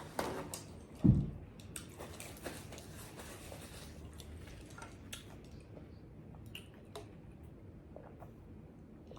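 Close-up soft, wet chewing and mouth sounds of someone finishing the last of a mouthful, with scattered small clicks and one dull thump about a second in; the sounds thin out in the second half.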